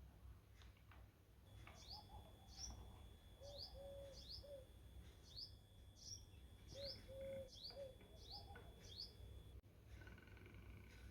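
Small birds chirping faintly: a run of short, sharp chirps repeating about once a second, with a lower call heard twice in the middle.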